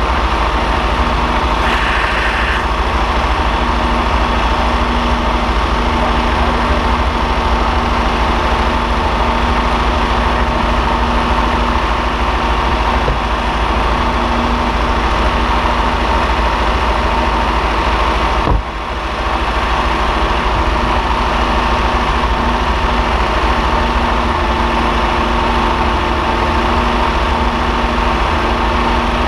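Freshly rebuilt 1962 Ferrari 250 GT/E's 3.0-litre Colombo V12 idling steadily, heard right above the open engine bay. A single sharp click about two-thirds of the way through, with a brief dip in level.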